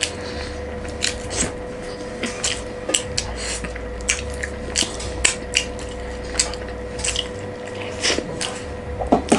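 Eating sounds: scattered light clicks and taps of dishes and utensils, with wet mouth sounds, over a steady hum.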